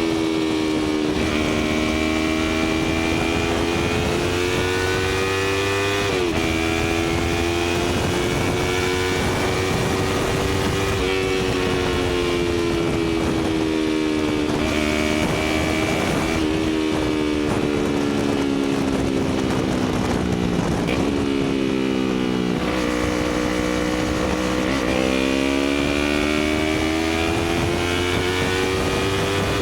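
Yamaha YZF-R3's parallel-twin engine through an Akrapovic titanium slip-on exhaust, ridden on the road: the engine note climbs steadily and drops sharply at gear changes about six and eleven seconds in, falls away for a while past the middle, then climbs again near the end. Steady wind noise runs underneath.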